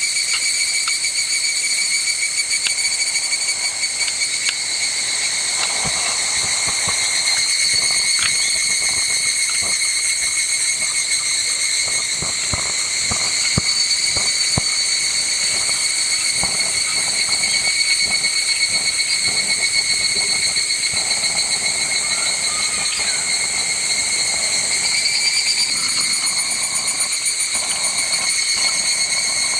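Cicada chorus: many cicadas shrilling steadily together in layered high pitches, with faint scattered clicks and knocks underneath.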